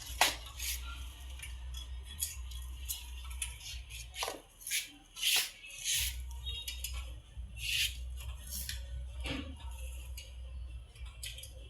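Clothes hangers clicking and knocking with short rustles of damp laundry as the clothes are hung out to dry: scattered light clicks and swishes at irregular intervals over a low steady hum.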